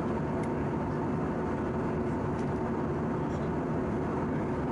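Steady in-flight cabin noise of an Airbus A319-111 airliner: a constant rush of air and engine hum with a few faint steady tones running through it, and a couple of faint ticks.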